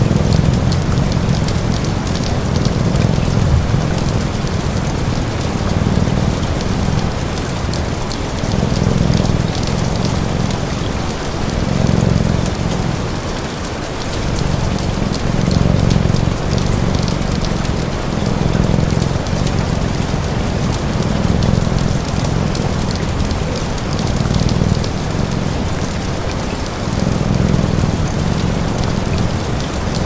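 Steady rain falling, an even hiss with fine patter. Under it runs a low cat purr that swells and fades every two to three seconds, breath by breath.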